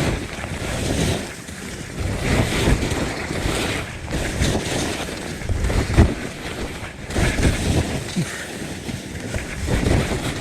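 Skis hissing and scraping through snow as they turn, under wind rushing over a GoPro camera's microphone. The sound swells and fades irregularly, with a few sharp clicks.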